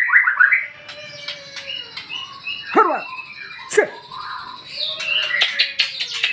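White-rumped shama (murai batu) singing a varied song: high whistled phrases, sharp downward-sweeping notes about three and four seconds in, a long low falling whistle, and a fast run of clicking notes near the end.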